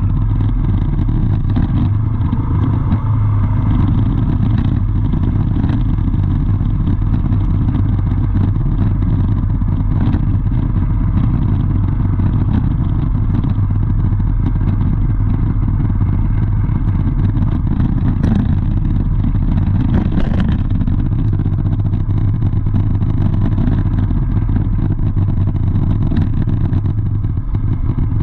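Motor vehicle engine running steadily, a continuous low drone, with a few short clicks and clatters about two-thirds of the way through.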